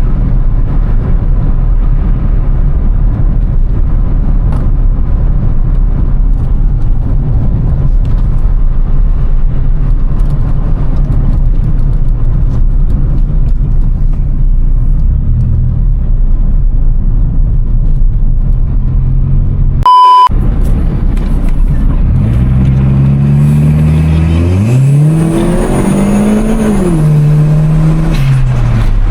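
Car engine running at a steady low drone, then a short high beep about two-thirds of the way in, after which the engine revs up, holds high briefly and falls back down near the end.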